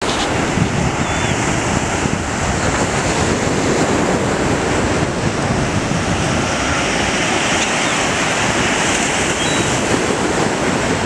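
Surf washing onto a sandy beach, with wind buffeting the microphone. A few faint, short, high calls from gulls come through the noise.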